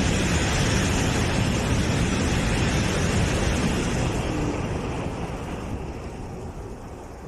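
High-speed EMU train passing through the station at speed: a loud, steady rushing noise that fades away over the last few seconds as the train moves off.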